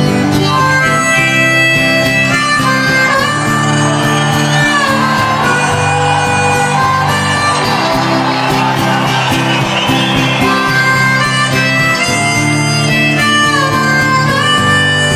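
Instrumental break of a country-folk song: harmonica playing a melody with bent, sliding notes over strummed acoustic guitar.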